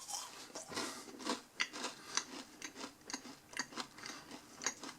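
Chewing a dry, crunchy oats-and-honey granola bar: irregular sharp crunches and clicks, a few each second.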